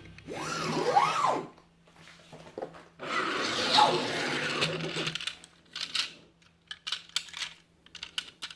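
Two swooping sound effects that rise and fall in pitch, then a hissy stretch and a scatter of light clicks and snaps from the plastic parts of a Transformers Optimus Prime toy being handled and transformed.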